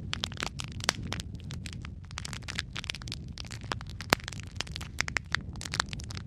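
Wood fire crackling in a fireplace: a dense run of small pops and snaps over a steady low rumble, with sharper pops about a second in and about four seconds in.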